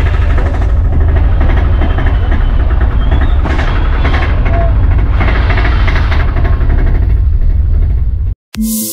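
Auto-rickshaw engine running on the move, a loud steady low rumble heard from inside the cab. It cuts off suddenly near the end and music follows.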